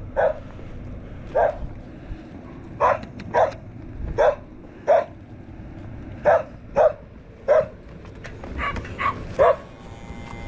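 A dog barking, about a dozen short, sharp barks at irregular intervals.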